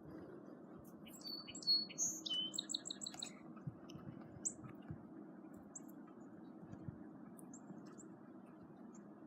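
A small songbird sings a short phrase about a second in, a quick run of high repeated notes, followed by scattered single chirps. A steady low rushing hum runs underneath.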